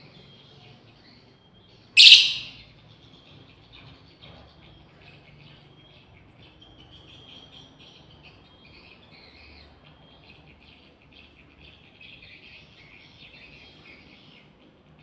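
Lovebirds chattering in a steady stream of high chirps, with one loud, shrill call about two seconds in.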